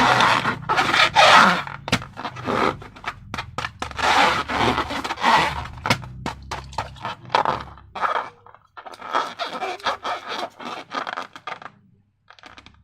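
Slime being worked by hand in a container, with quick irregular scraping and crackling strokes that stop near the end.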